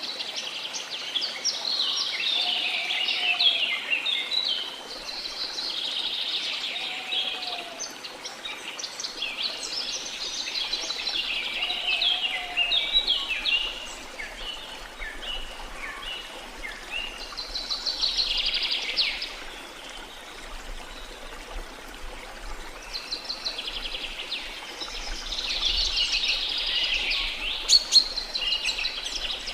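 Rainforest birds chirping and trilling in overlapping bouts, over a faint steady rush of falling water. A short, lower call repeats several times in the first half, and a sharp click sounds near the end.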